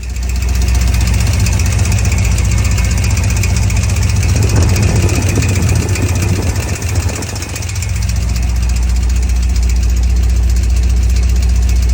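2003 5.3-litre LS V8 engine running at idle, now on cleaned spark plugs that had been fouled by a rich mixture. It runs unevenly for a few seconds in the middle, then settles into a steady idle.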